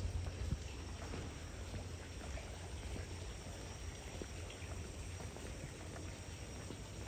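Steady rain on a city street: an even hiss with scattered faint drips and taps, over a steady low hum.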